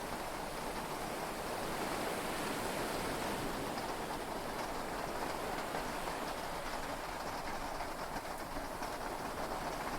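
Heavy rain and sea waves heard inside a yacht's cabin, a steady, even wash of noise that swells slightly about two seconds in.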